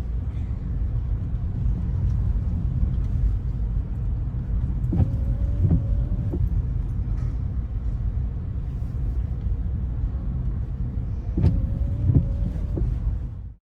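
Car rolling on wet city streets, heard from inside, with a steady low road rumble. Windscreen wipers sweep about every six and a half seconds, each sweep a short squeak with knocks at either end. The sound cuts off suddenly near the end.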